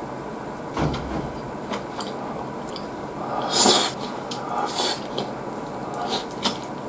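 Close-miked chewing and mouth sounds of a person eating cherry tomato and lettuce with chopsticks, with scattered small clicks and two louder noisy bursts, about three and a half seconds in and just before five seconds.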